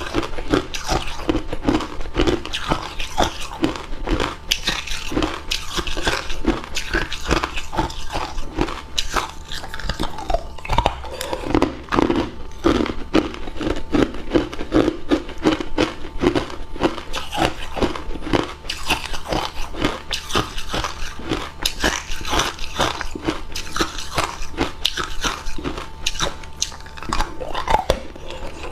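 Hard ice cubes being bitten and chewed close to the microphone: a continuous run of sharp, brittle crunches, several a second.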